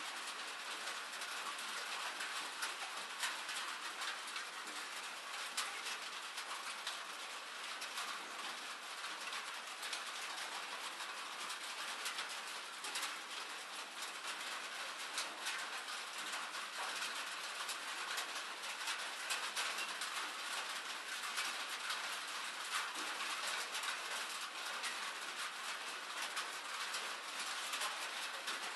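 Steady rain, an even hiss of falling drops with many small, sharp drop ticks close by.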